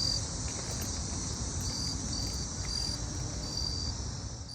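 Outdoor insect chorus: crickets trilling steadily, with short separate chirps at one high pitch every half second or so, and low rumble beneath. The sound fades out sharply at the very end.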